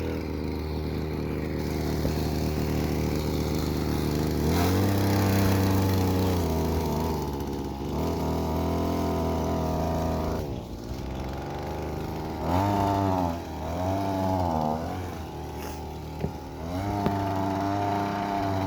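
Mini bike's small engine running under load, its pitch climbing and dropping several times as the throttle is opened and eased off, with two quick rev swells in the second half.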